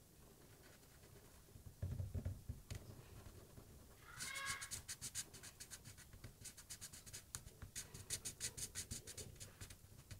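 Low thumps about two seconds in, then a short pitched whine from an animal about four seconds in, followed by a fast, irregular run of sharp scratchy clicks.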